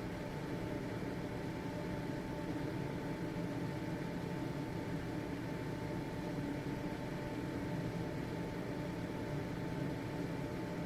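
Household ventilation fan running steadily: a constant motor hum with whooshing air noise and a faint steady whine.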